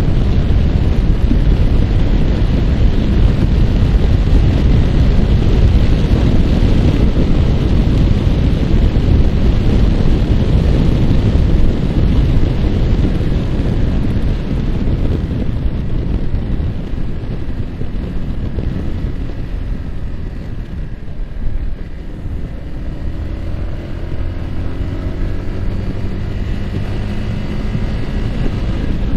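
Heavy wind rush on the microphone over a Yamaha R15's single-cylinder engine at road speed. The wind eases a little past halfway, and near the end the engine note rises as the bike accelerates.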